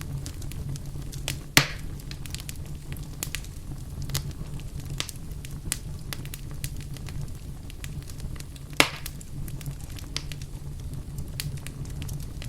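Wood fire crackling in a fireplace: frequent small snaps over a steady low rumble, with two loud pops, one about a second and a half in and one near nine seconds.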